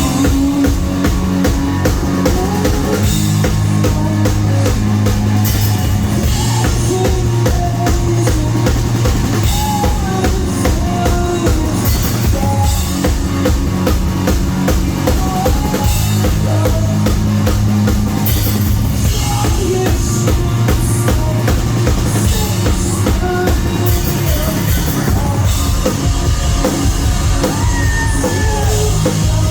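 Live rock band playing at full volume, driven by a drum kit with a steady kick-drum beat of about three a second.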